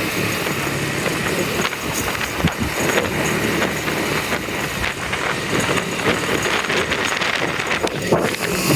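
Motorcycle on the move through traffic: steady engine and road noise with frequent rattles and knocks.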